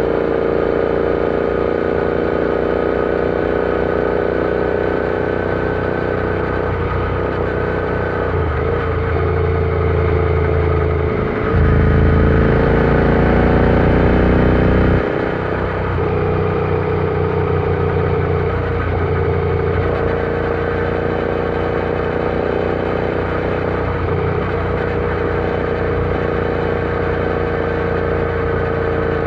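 Royal Enfield Interceptor 650's 648 cc parallel-twin engine running steadily as the bike rides along, growing louder and deeper for a few seconds about halfway through before settling back.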